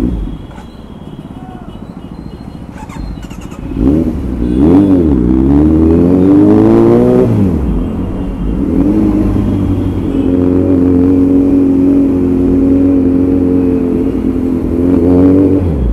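Kawasaki Z900 inline-four engine under way: quieter for the first few seconds, then revving hard about four seconds in, its pitch climbing and dropping away twice before it settles to a steady note, with a short surge near the end.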